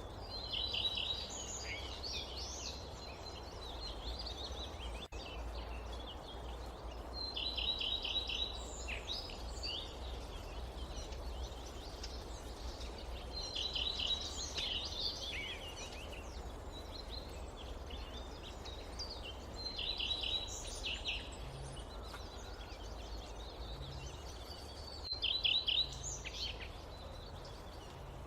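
A songbird singing the same short, quick phrase of rapid notes about every six seconds, five times, over a steady low background rumble.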